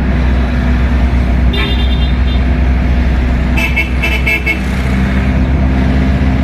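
Road traffic: a steady low engine rumble, with vehicle horns beeping briefly about a second and a half in and again several times in quick succession about three and a half to four and a half seconds in.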